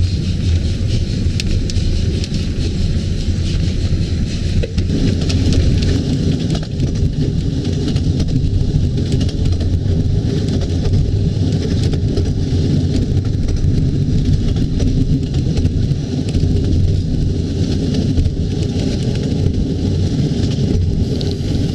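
A 15-inch gauge Ravenglass and Eskdale Railway train running at speed, heard from inside a carriage: a steady loud rumble of wheels on rails with continuous fine clatter.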